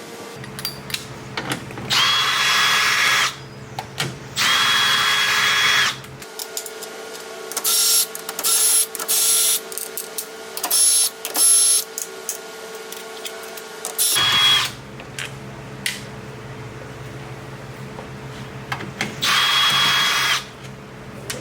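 A handheld power tool whirring in repeated bursts of about a second each, with a cluster of quicker, higher-pitched spurts near the middle.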